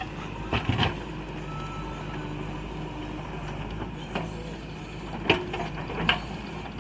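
JCB 3DX backhoe loader's diesel engine running steadily, with several sharp knocks and clanks, the loudest about five seconds in.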